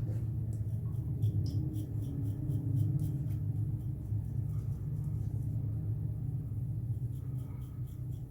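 Gillette Black Beauty safety razor scraping through lathered stubble in quick short strokes, about four a second, in two runs with a pause of a few seconds between them, over a steady low hum.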